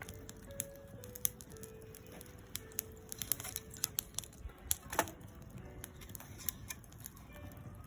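Wood fire crackling, with irregular sharp snaps and one louder pop about five seconds in, over faint background music.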